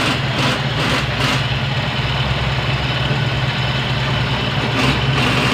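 Mitsubishi Lancer's carbureted four-cylinder engine idling steadily, freshly overhauled carburetor with a new needle valve.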